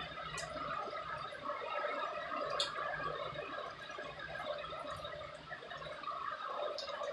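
Rainwater gurgling and dripping steadily, with scattered sharp drips throughout.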